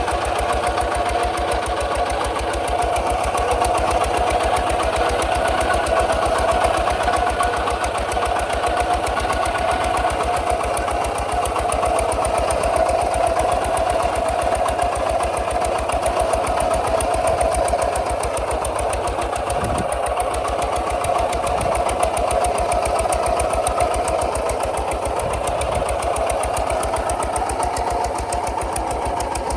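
Kubota RT140 DI single-cylinder diesel engine running steadily with a fast, even chugging beat.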